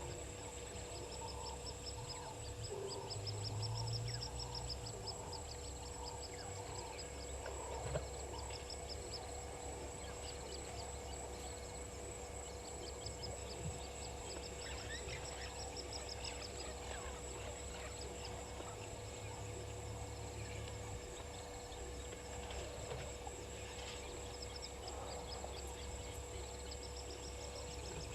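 Wild birds calling in short repeated notes and high trills over a steady insect drone, with a low rumble at times.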